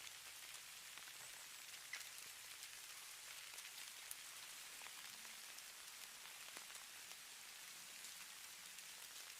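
Faint falling snow: a steady soft hiss with many tiny light ticks scattered through it, one slightly sharper tick about two seconds in.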